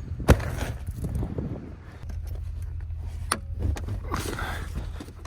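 A vehicle engine running steadily at a low, even rumble, with a sharp metallic knock about a third of a second in and another just past three seconds.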